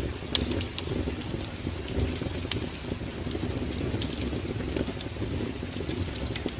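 Wood fire in a fireplace burning with a steady low rumble, crackling and popping with sharp irregular snaps.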